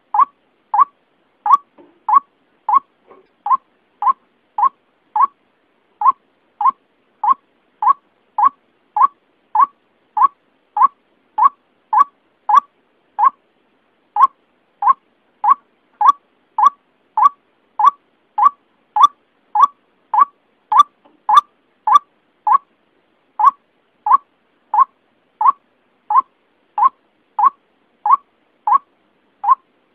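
White-breasted waterhen (ruak-ruak) call used as a lure: short, sharp notes repeated evenly at about three every two seconds, breaking off briefly a few times.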